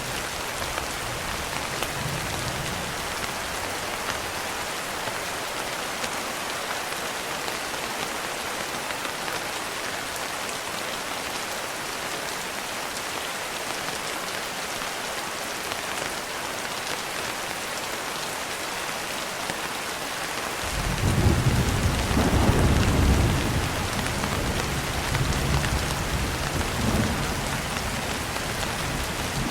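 Steady rain falling, with a roll of thunder breaking in about two-thirds of the way through: a deep rumble that swells, surges again a few seconds later and dies away.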